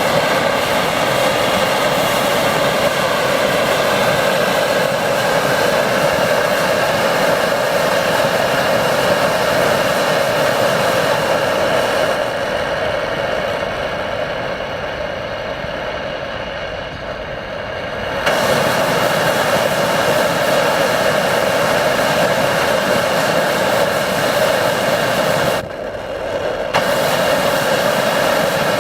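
Hoebus 725 gasoline pressure stove burner burning steadily at high flame. It drops lower for several seconds midway, then comes back up, with one brief sharp drop near the end.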